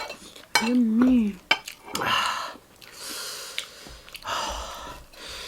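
Eating sounds: chewing, with sharp clinks of cutlery against a plate. About a second in there is a short hummed vocal sound.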